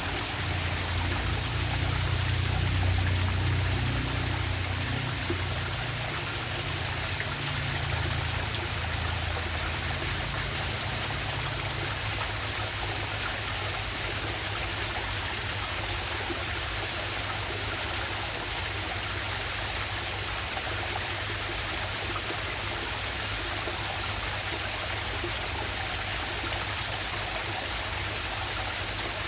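Steady rushing water of a small jungle waterfall and stream, an even hiss. A low rumble underlies it for roughly the first twelve seconds, then fades out.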